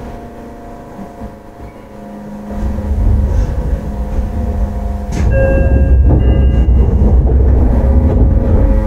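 Shin-Keisei 8900-series electric train with a refurbished Mitsubishi IGBT inverter drive, running on the line. Steady motor and inverter tones and wheel-on-rail rumble grow louder from about a third of the way in, with a sharp click about halfway through followed by a few steady high whines.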